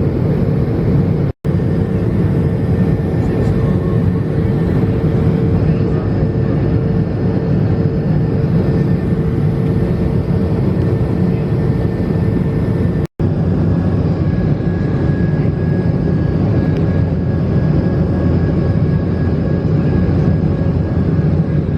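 Steady in-flight cabin noise of an Airbus A220-300: an even rush of airflow and engine noise from its Pratt & Whitney geared turbofans, with a faint steady hum. It drops out for an instant twice, about a second in and again around thirteen seconds.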